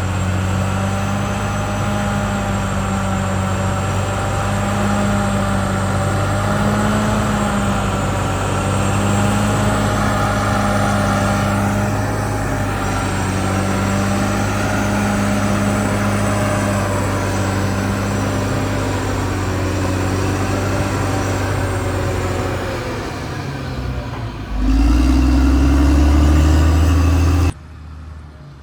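Caterpillar D6R XL bulldozer's diesel engine running steadily under load, with a wavering whine above the engine note. Near the end a deeper, louder drone takes over for a few seconds, then cuts off suddenly.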